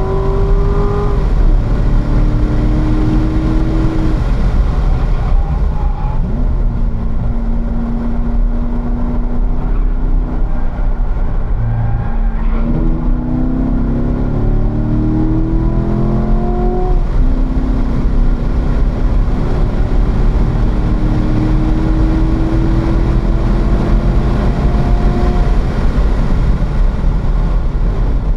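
Stock Chevrolet C7 Corvette Z51's 6.2-litre V8 at track speed, heard inside the cabin. The revs climb under hard acceleration and drop several times as the driver lifts for corners and shifts up from third to fourth, over heavy wind and road noise.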